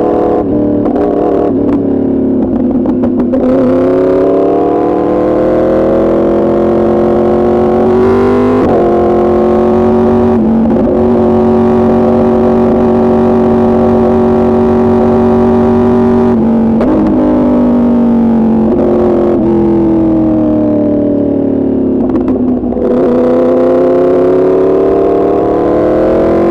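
A 2024 Yamaha R1's crossplane inline-four running through an Arrow Pro Racing exhaust while being ridden. The engine note falls, climbs, holds steady for several seconds, then falls and climbs again, with a few short breaks in the note that mark gear changes.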